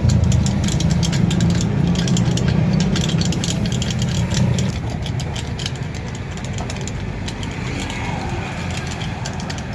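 A motor running steadily with rapid rattling clicks. It drops a little in level after about five seconds.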